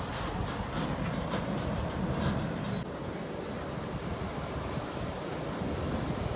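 Steady low rumble of heavy diesel tractor-trailer traffic and tyre noise on a highway.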